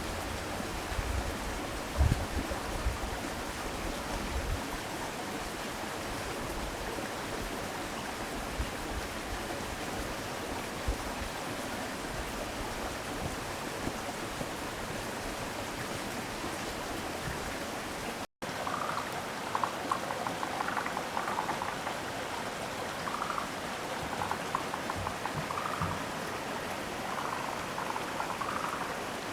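Steady rush of running water. After a short break about two-thirds of the way in, brief higher-pitched sounds come and go over it.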